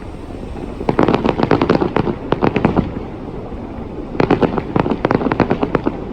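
Fireworks going off in two runs of rapid crackling pops, the first starting about a second in and the second about four seconds in.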